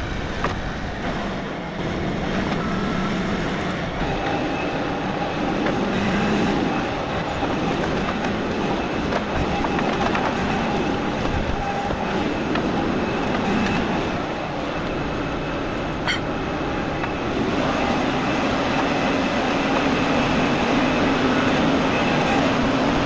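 Diesel tractor engine running steadily while the loader is worked, its note rising a little in the last few seconds.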